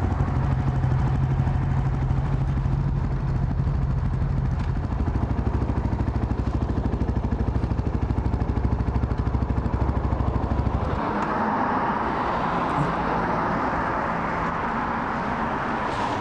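A motorcycle engine idling with a steady low pulse; about eleven seconds in the engine sound stops abruptly, leaving a steady rushing noise.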